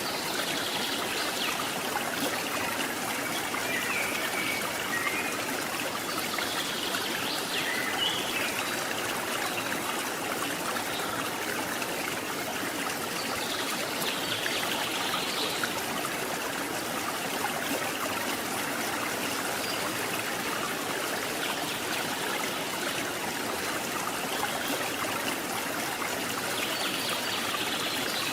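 River water flowing: a steady, even rush of a forest stream.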